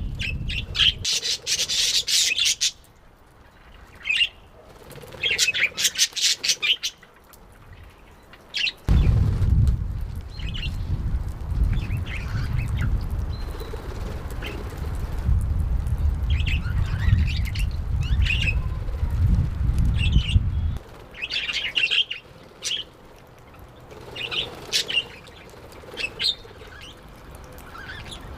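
Pet budgerigars chirping and chattering in quick clusters of short, high calls, with quieter stretches between. A low rumble underlies the calls from about a third of the way in until about three quarters of the way through.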